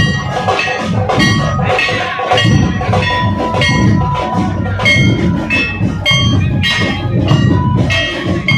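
Maharashtrian dhol-tasha troupe playing: big barrel dhol drums beating with ringing metallic clashes in a steady rhythm, about two to three strikes a second.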